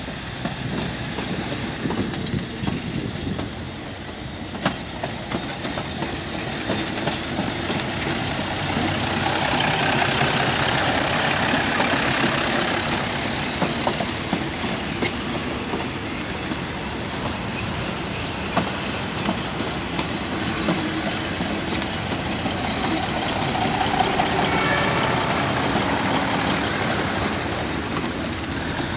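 Diesel railcar passenger train rolling slowly past close by: a steady running noise with wheels clicking over rail joints, loudest about a third of the way through and again near the end.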